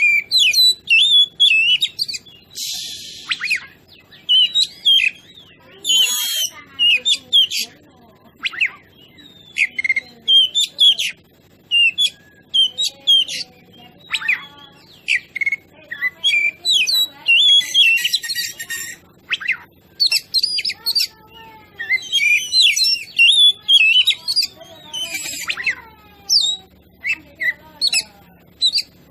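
Oriental magpie-robin (kacer) singing loudly and without pause: a rapid run of varied whistled and chattering phrases, broken every few seconds by short harsh rasping notes.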